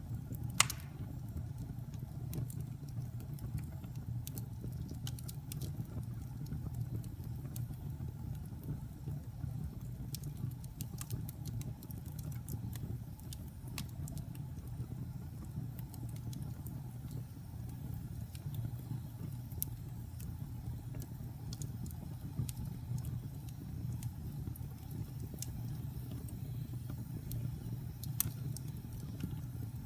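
Fireplace fire burning with a steady low rumble and scattered sharp crackles and pops from the burning wood, one loud pop about half a second in and another near the end.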